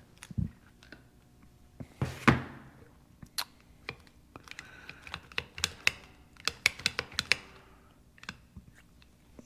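Clicks and knocks of metal parts of a Lucas CAV DPA diesel injection pump being handled and worked during disassembly. A dull thump comes just after the start and a heavier knock about two seconds in, followed by a run of quick sharp clicks in the second half.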